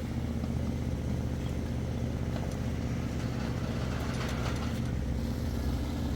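An engine running steadily at a constant speed, with a few light knocks and a short scrape about four seconds in.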